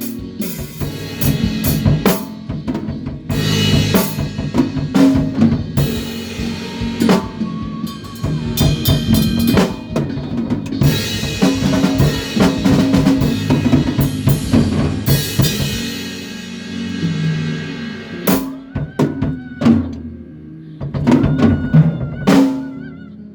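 Live band rehearsing a song: drum kit with kick, snare and cymbals driving over bass and other pitched instruments. After about 16 seconds the playing thins to scattered hits and a few cymbal crashes.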